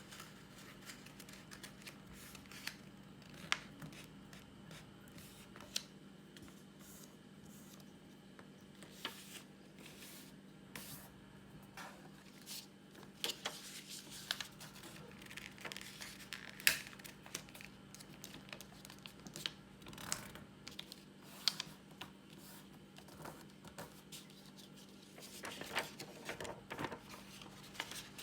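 Sheet of paper being handled, folded and creased by hand: irregular soft rustles and clicks, busier in the middle and near the end, over a steady low hum.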